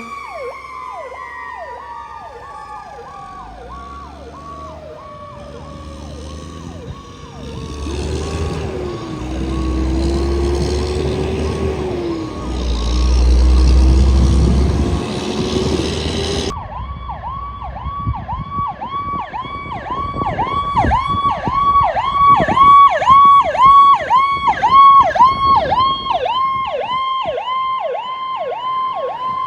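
Sirens of emergency vehicles responding code 3. First a siren's pitch falls slowly while a fast up-and-down wail cycles alongside and a heavy truck engine rumbles loudly past; after an abrupt change about halfway through, a loud electronic yelp siren sweeps up and down about three times a second.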